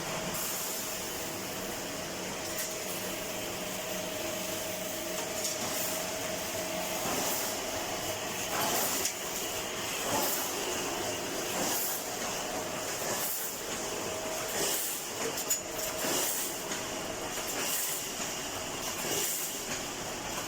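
Automatic wire mesh welding machine running in production: a steady hiss and machine noise with a short welding stroke repeating roughly once a second.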